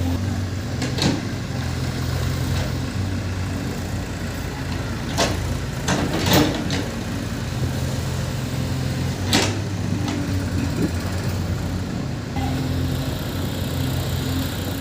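Heavy diesel machinery engine running steadily, with a few sharp knocks over it.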